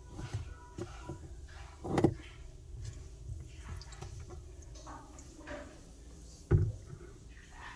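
Two sharp knocks, about two seconds in and again near the end, over a low steady hum, with light clatter between.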